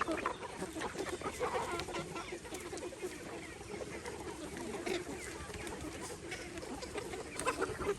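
A flock of chickens clucking continuously, many short calls overlapping, with a few sharp clicks scattered among them.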